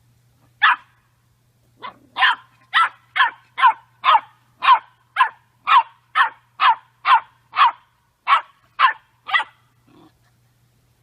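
A dog barking: a single bark, then a steady run of barks at about two a second that stops shortly before the end.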